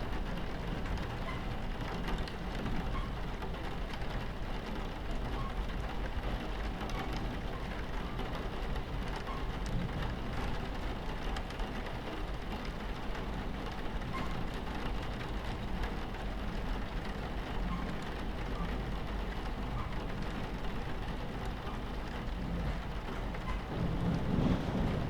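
Rain on a train window over the steady low rumble of a train running on its tracks, with scattered small drop ticks. A louder low swell in the rumble comes near the end.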